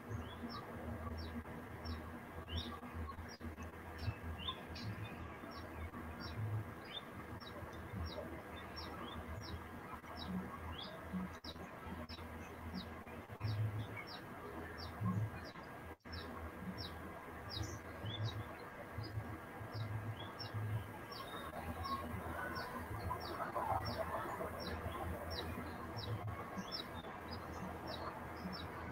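A small bird chirping over and over, a short high falling chirp about twice a second, with soft low thumps underneath.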